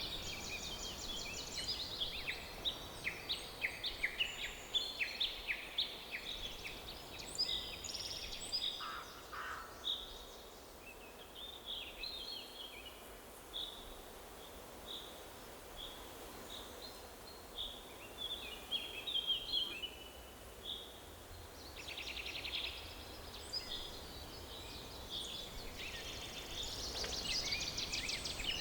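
Several songbirds singing in a forest: a busy mix of chirps and trills, thinning in the middle to single high notes repeated about once a second, then busy again near the end, over a faint steady background hiss.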